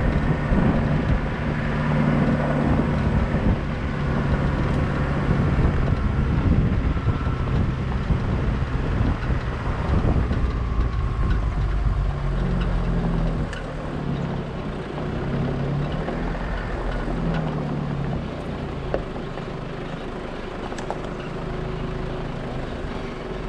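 Four-wheel-drive vehicle's engine running while being driven, with steady road rumble and wind noise; the engine pitch rises and falls a few times around halfway through and it is a little quieter toward the end.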